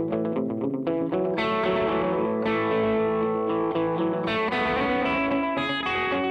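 Electric guitar played through a reverb and delay pedal: quickly picked notes over ringing, sustained chords, each note trailing echoes and a wash of reverb.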